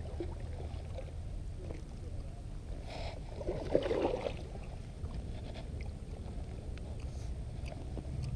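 Paddle strokes in the water beside an inflatable kayak, over a steady low rumble, with a louder splashy stroke about three to four seconds in.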